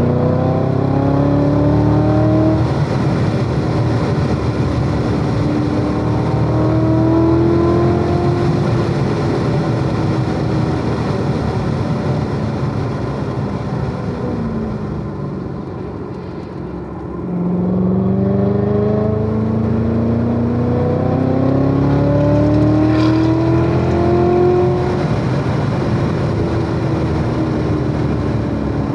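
C7 Corvette Z06's supercharged 6.2-litre V8 driven hard on track: engine pitch climbs with an upshift a few seconds in, then falls away to a quieter low just past halfway as the car slows, before climbing hard again to another shift near the end.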